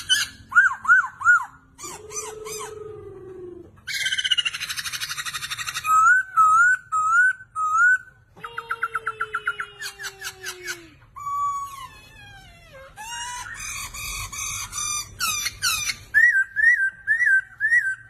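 A laughingthrush of the kind sold as 'Poksay Hongkong' singing hard: a long, varied song of loud whistled notes repeated in quick series, with sliding notes and two harsh rasping stretches.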